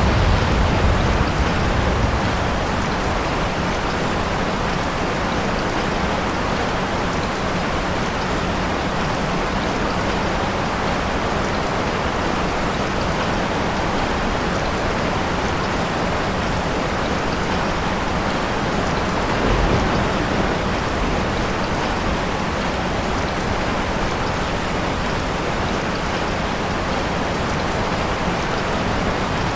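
Steady heavy rain falling. A low thunder rumble fades away in the first couple of seconds, and a brief, fainter rumble comes about twenty seconds in.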